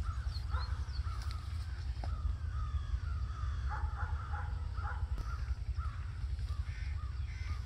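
Birds calling over and over in short, quick calls over a steady low rumble.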